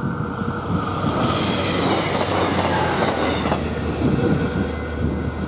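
Regional diesel train passing close by, wheels and rails hissing and clattering over a low steady rumble. The high rushing noise stops sharply about three and a half seconds in as the end of the train goes by.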